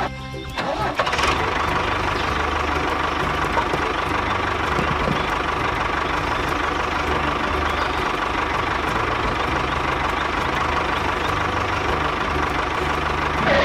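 A DIY mini tractor's motor running steadily, with an even mechanical drone and a steady whine. It starts about half a second in.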